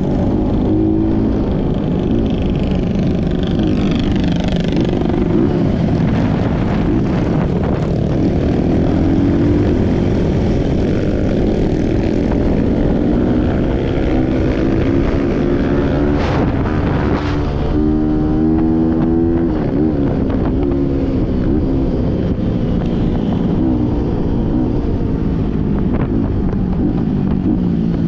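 Trail motorcycle engine running, its revs rising and falling as the bike is ridden.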